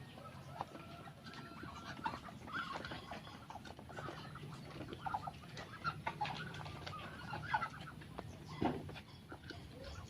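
Farm poultry clucking and calling in short scattered notes, with small clicks and scuffling among them.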